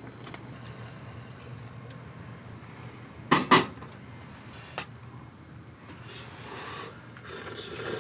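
Camping gear being handled: two quick, sharp knocks about three and a half seconds in, like a lid or container being shut, then a lighter click and a rustling near the end.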